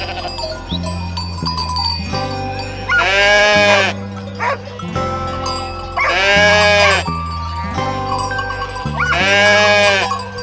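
A sheep or goat-type bleat repeated three times, each call about a second long and evenly spaced about three seconds apart, over a steady backing track of music.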